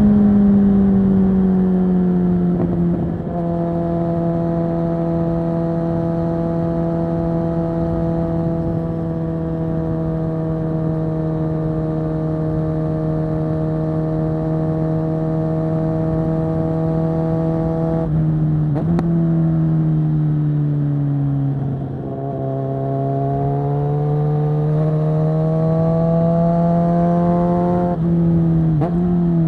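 Loud onboard sound of a 2022 Kawasaki Z900 SE's inline-four engine through a Zard full-system exhaust, running at steady revs. About 18 seconds in the pitch drops suddenly and keeps falling for a few seconds as the bike slows. It then climbs steadily under acceleration until a sudden drop near the end.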